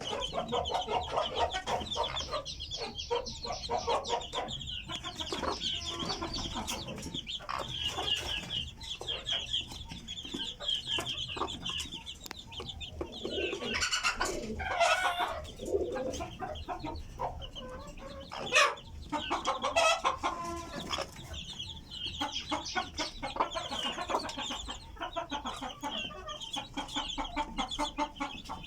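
Deshi (native Bangladeshi) chickens clucking, with chicks peeping steadily and a few louder calls in the middle.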